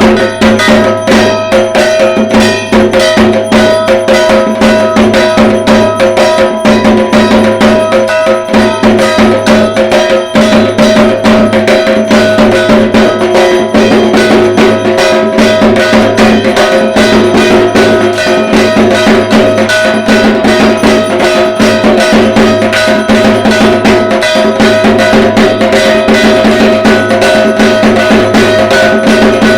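Dhak drums beating a fast, continuous rhythm, with a clanging metal percussion part ringing along.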